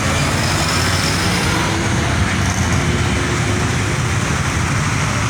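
Steady road traffic noise: vehicle engines and tyres running close by.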